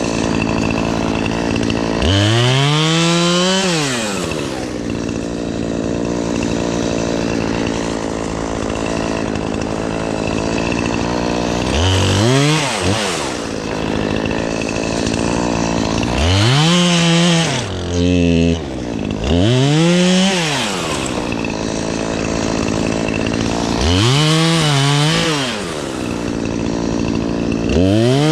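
Two-stroke chainsaw running steadily between cuts and revving up to full speed about six times, each burst lasting one to two seconds before the pitch drops back, as it cuts tree limbs in small bites.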